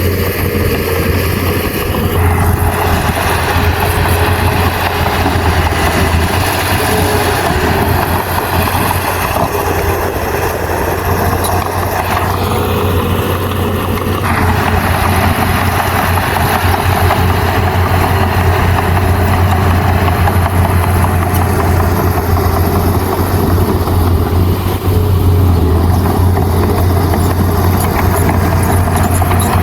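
Heavy earthmoving machine's diesel engine running steadily, loud, with its tone shifting about two seconds in and again around fourteen seconds in.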